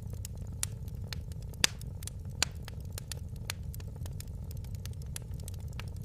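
Wood fire crackling in a fireplace: irregular sharp pops and snaps, the loudest about one and a half seconds in, over a steady low rumble of burning.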